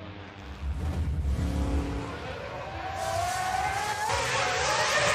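Race car engine running: a low rumble for the first couple of seconds, then rising in pitch as the car accelerates.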